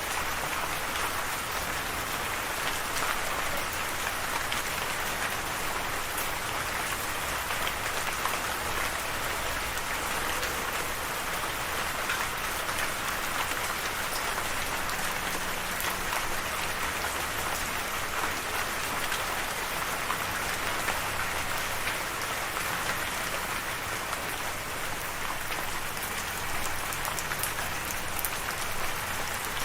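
Steady rain falling on a surface: an even hiss with scattered fine drop ticks.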